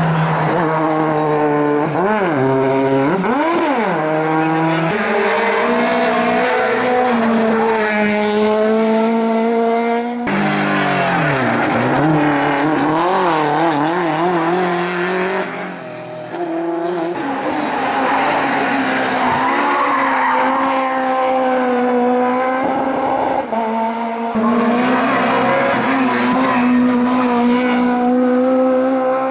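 Hillclimb race cars driven hard, with engines revving high and pitch swinging up and down through gear changes and throttle lifts, and tyres squealing. The sound changes abruptly a few times as one car's run gives way to another's.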